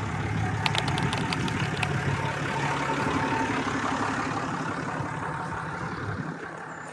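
A vehicle engine running with a low, steady hum that fades away near the end, with a few light clicks about a second in.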